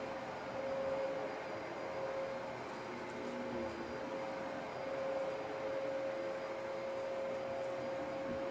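Dyson DC33 upright vacuum cleaner running steadily: an airy rush with a constant motor whine.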